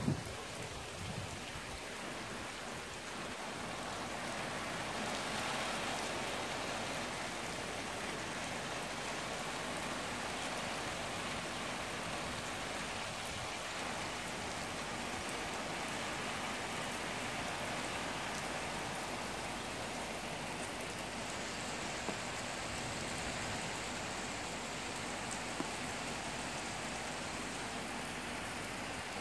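Heavy rain pouring steadily, a dense even hiss of drops on surfaces. The tail of a thunder rumble fades out in the first second.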